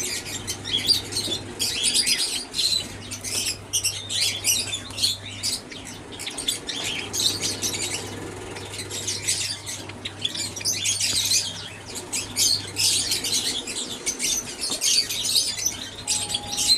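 Many Java sparrows chirping at once, a continuous chatter of short, high, overlapping calls, over a steady low hum.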